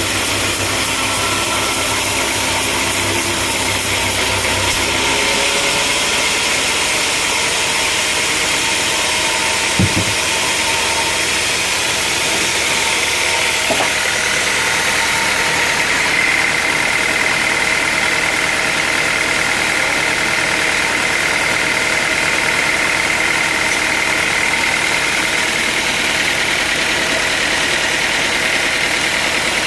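Sawmill machinery running steadily, with an engine-like hum. There is one sharp knock about ten seconds in, and a steady higher whine comes in around the middle and holds to the end.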